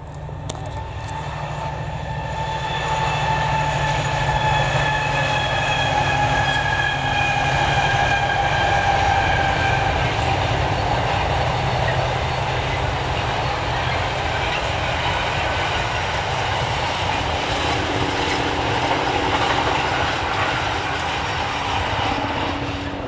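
Freightliner diesel locomotive hauling a container freight train past, its engine a steady low drone with a high whine that slowly drops in pitch over the first ten seconds. The sound grows louder over the first few seconds, then holds.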